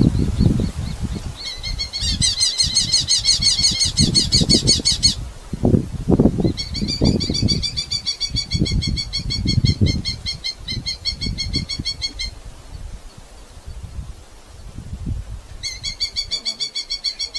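Red-footed falcon giving rapid chattering calls, three bouts of fast repeated notes. Under the calls come loud low rustles and thumps.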